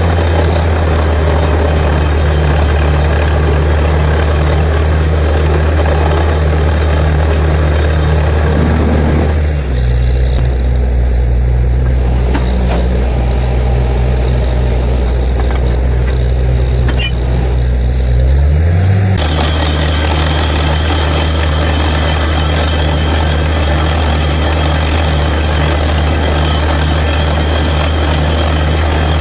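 Borewell drilling rig's engine running under load, a steady low drone with a hiss over it. About ten seconds in, the hiss drops away and the engine settles a little lower. Near nineteen seconds the engine pitch rises back and the hiss returns.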